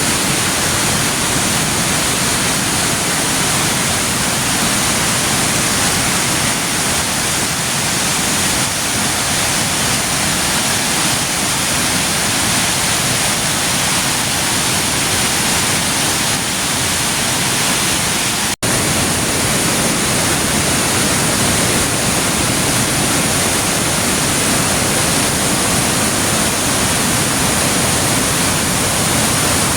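Waterfall: a loud, steady rush of falling water, broken for an instant about two-thirds of the way through.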